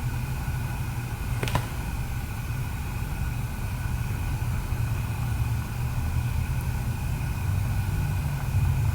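Steady low machine hum with a few faint steady higher tones over it, and a single light click about a second and a half in.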